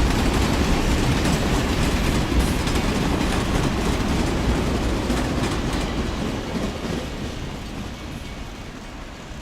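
A train running on rails, loud and then fading steadily over the last few seconds as it moves away.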